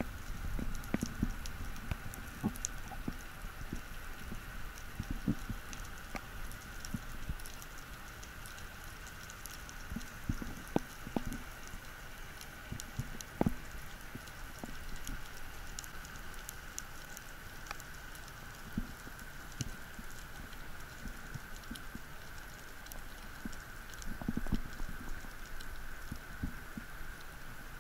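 Underwater ambience picked up by a diver's camera: scattered crackling clicks and low sloshing rumbles of water moving past, over a faint steady high hum. A few sharper clicks stand out about ten and thirteen seconds in.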